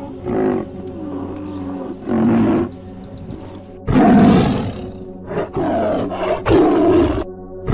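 Tiger roaring in a series of loud calls, the loudest about four seconds in, over steady background music.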